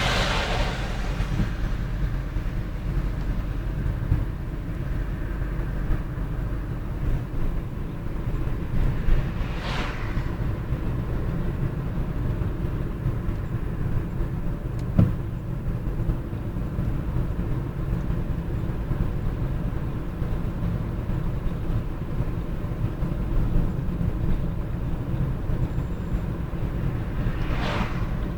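Steady low road rumble of traffic. Vehicles pass three times, at the start, about ten seconds in and near the end, each swelling and fading.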